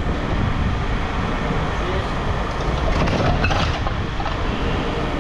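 Steady low rumble of running machinery, with faint background voices and light clatter.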